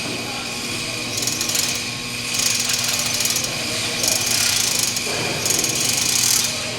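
A hoist on the A-frame runs in four short bursts of rapid rattling clatter, taking up the load as the engine is lifted.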